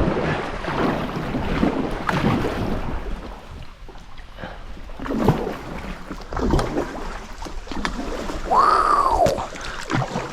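Kayak paddle strokes, with water splashing and swishing in uneven surges every second or two, and wind rumbling on the microphone. Near the end a brief call rises and falls in pitch.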